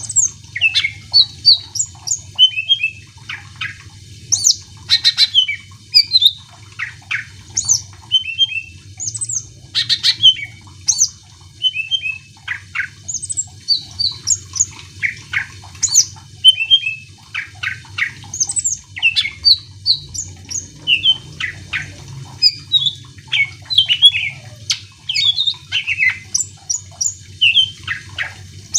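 Cucak ijo (greater green leafbird) singing continuously: a fast, varied run of sharp chirps, whistles and trills with quick rising and falling notes, over a faint low hum.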